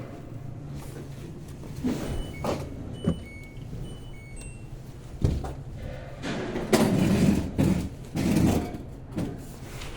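LG WT16SSB washing machine running with its water pump newly replaced: a steady low hum with scattered knocks and louder sloshing swells in the second half. A few short electronic beeps sound about three to four and a half seconds in.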